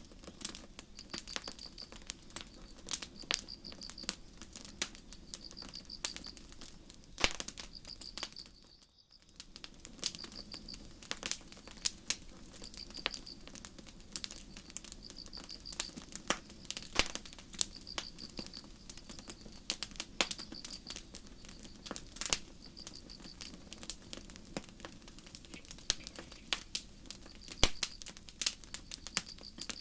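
Campfire crackling with irregular sharp pops, over crickets chirping in short high trills about every second and a half. The sound drops out briefly about nine seconds in.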